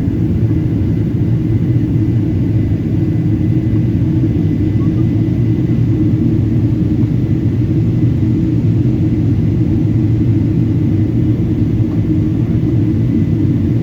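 Steady cabin noise inside a Boeing 777-200 in flight: a low, even rumble of engines and airflow, with a faint thin whine above it.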